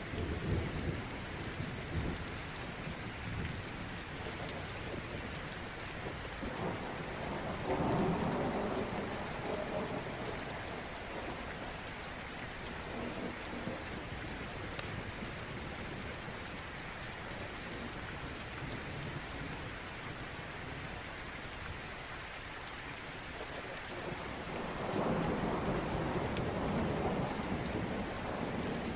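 Steady rain with two low rolls of thunder, one about seven seconds in and one near the end.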